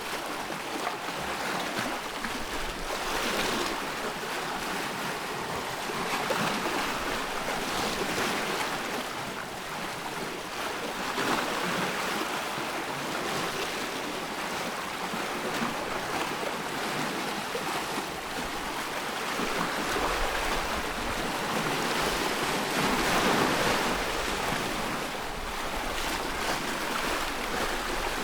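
Ocean surf: waves washing in, the rush of water swelling and falling back in slow surges every few seconds.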